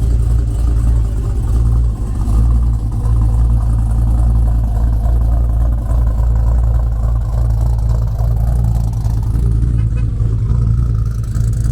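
A car engine idling with a steady, deep exhaust rumble.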